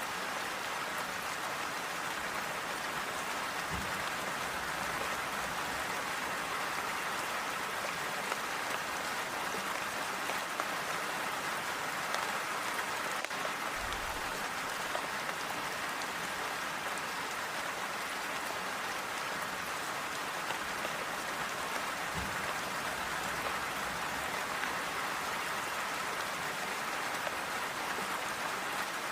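Steady rain falling on a clay-tile roof, an even, unbroken patter.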